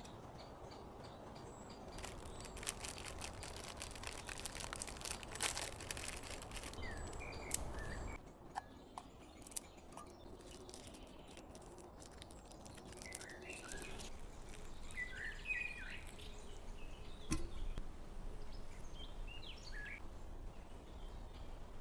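Small birds chirping in short, scattered calls. Scattered clicks and crackles from about two seconds in, stopping about eight seconds in, over a steady low background rumble.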